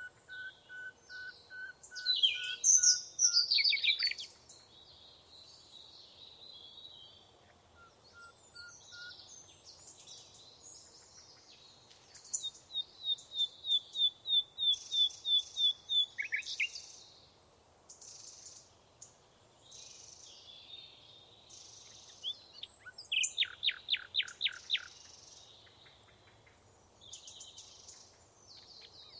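Small songbirds singing and calling: a run of even whistled notes at the start, quick falling phrases about two to four seconds in, a steady string of a dozen clear high notes around the middle, and a fast burst of repeated notes near the end, with other chirps between.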